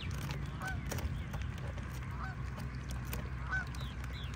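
A large bird honking, three short calls about a second and a half apart, over a steady low hum.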